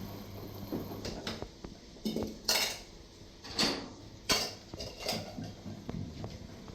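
Dishes and cutlery clinking: several sharp clinks about a second apart in the middle.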